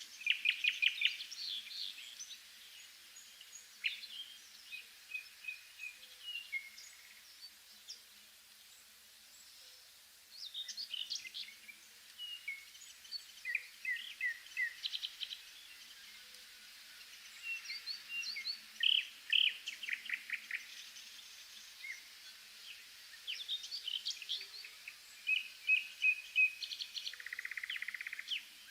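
Several songbirds calling and singing: a busy mix of short chirps, rapid trills and whistled notes, over a faint steady background hiss.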